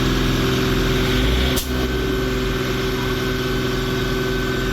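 Truck engine running steadily at raised revs, with one sharp click about a second and a half in.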